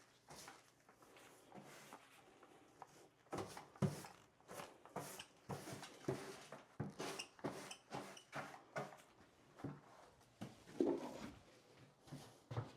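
Irregular scrapes, knocks and rustles of debris being cleared by hand off the subfloor where the old bathroom vanity stood.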